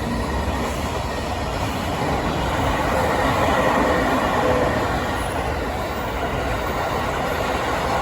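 Train passing close by, a steady rush of wheel and running noise on the rails.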